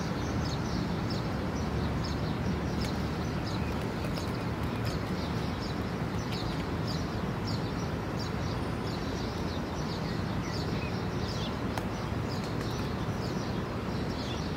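Small birds chirping over and over in short, high, downward-sliding notes, over a steady low background rumble.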